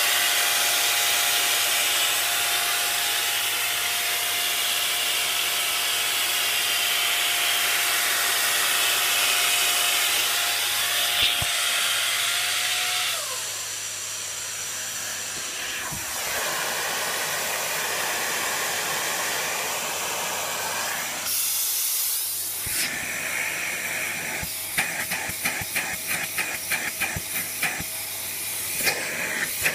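Dyson DC54 vacuum cleaner running, a steady rush of air with a faint whine. The sound changes a couple of times partway through. For the last few seconds a quick run of clicks and rattles sits over the airflow.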